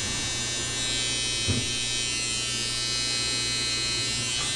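Electric hair clippers buzzing steadily while trimming a beard, with a brief knock about a second and a half in.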